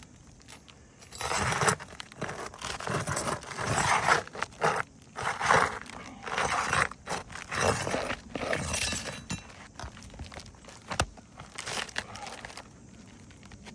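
A roof shingle being pried up with a flat bar: a run of irregular crunching, scraping and tearing as the shingle rips through at its nail holes, which dies away near the end.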